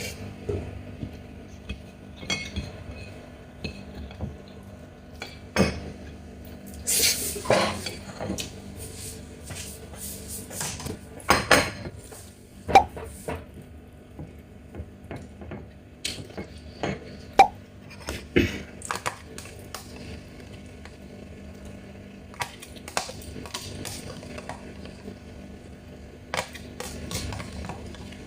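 Close-up eating of a Chinese mitten crab: irregular cracks and crunches of shell, with sharp clinks against a dish, two of them ringing briefly.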